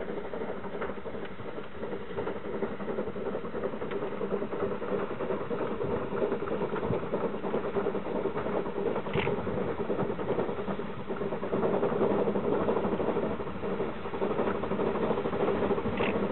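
Railway rotary snowplow running steadily as it blows through deep snow, a continuous mechanical drone of engine and spinning rotary wheel that grows louder as the plow comes closer.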